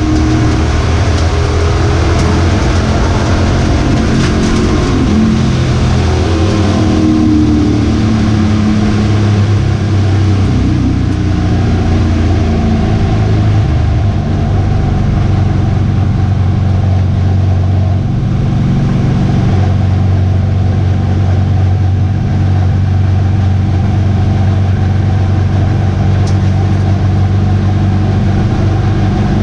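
Race truck's V8 engine running hard at racing speed, loud and steady, with its pitch rising and falling through the first several seconds as it lifts and gets back on the throttle.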